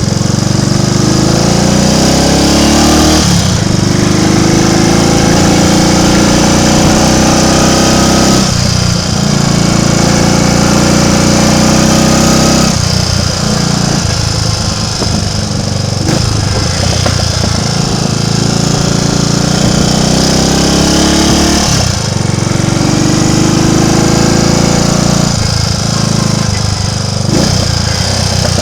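Triumph Tiger Cub's single-cylinder four-stroke engine running under way, its pitch climbing steadily and then falling back sharply several times as the bike accelerates and changes gear or eases off.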